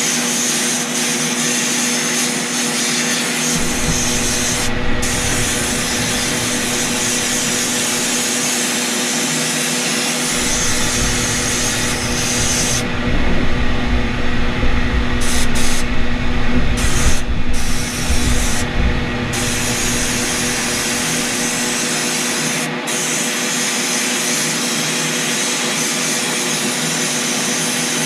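Sandblaster blasting abrasive against the cast-iron parts of a vise: a steady, loud hiss of air and sand with a steady hum underneath. The hiss briefly cuts out several times about halfway through.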